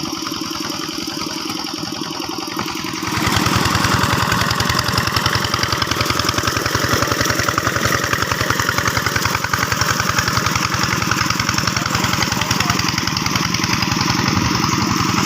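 Two-wheel hand tractor's single-cylinder diesel engine running with a rapid, even firing beat. About three seconds in it is throttled up and runs louder from then on.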